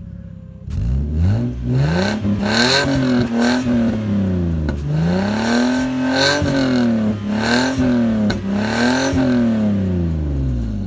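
Lexus IS300's 2JZ-GE inline-six revved repeatedly through a new aftermarket cat-back exhaust, starting about a second in. The note climbs and falls about five times before settling back down. The owner suspects a not-quite-tight mid-pipe joint adds some extra noise.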